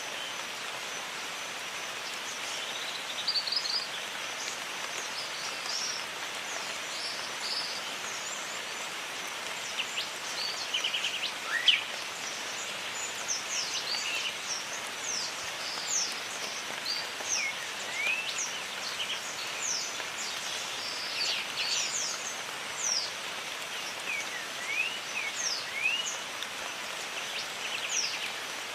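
Steady rain hissing in a jungle, with many birds chirping and whistling over it: short rising and falling calls, scattered throughout.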